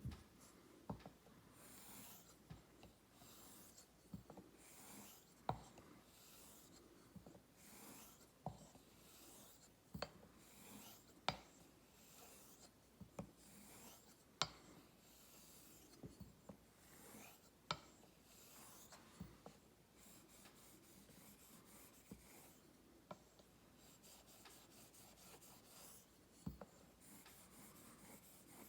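Straight razor honed on a wet whetstone: faint hissing swishes, about one per second, as the blade is drawn across the stone. Sharp light clicks come between many strokes as the razor is turned over on its spine, with a quicker run of short strokes about two-thirds of the way through.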